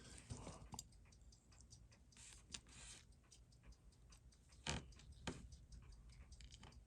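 Faint, irregular small clicks and taps of watch parts and tools being handled on a watchmaker's bench, with one slightly louder tap partway through.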